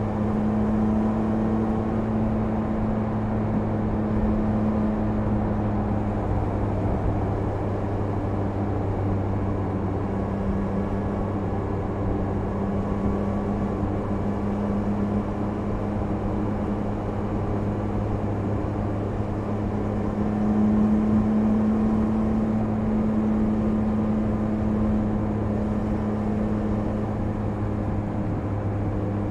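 Triumph Speed Triple 1050 RS inline three-cylinder engine cruising at steady revs, with road and wind noise. About two-thirds of the way through, the revs rise a little and the engine gets slightly louder for a few seconds.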